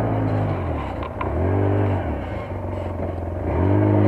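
Off-road buggy engine heard from aboard, its pitch dropping and picking up again twice as the throttle is eased off and reapplied on the track. Two light clicks about a second in.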